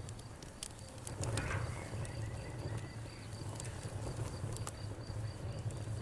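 Wood fire crackling with scattered sharp pops, over crickets chirping in a steady pulsing trill.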